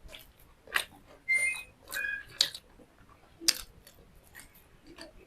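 Close-up eating sounds: a string of wet mouth smacks and sharp clicks from chewing and eating, with two brief high squeaky tones about one and a half and two seconds in.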